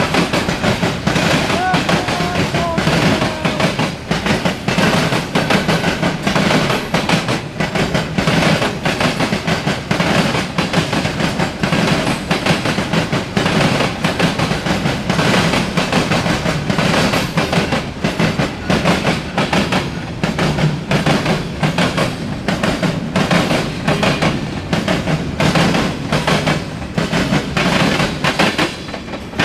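Norfolk Southern freight train passing, its cars rolling with a steady noise and a rapid, uneven run of wheel clicks over the rail joints.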